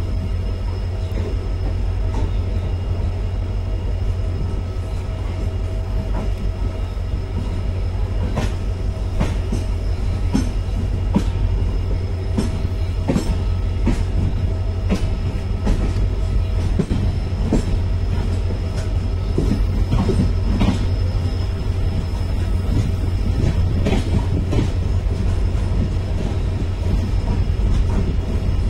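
A train of BOXN open freight wagons rolling past close by. Their wheels give a heavy, steady rumble, with clacks and knocks over the rail joints that come more often from about eight seconds in.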